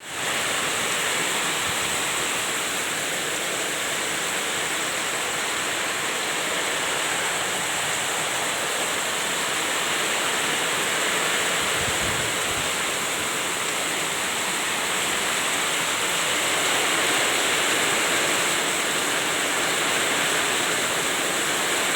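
Heavy rain pouring steadily in a windy storm, a dense even hiss. About halfway through there is a brief low thump.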